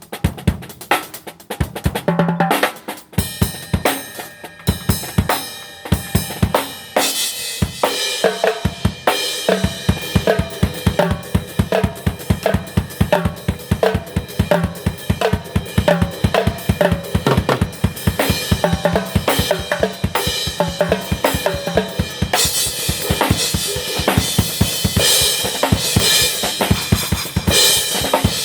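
Drum kit played at a fast tempo, with rapid kick and snare strokes. Sparse hits open the passage, cymbals wash in after about three seconds, and the strokes get denser and quicker from about nine seconds in.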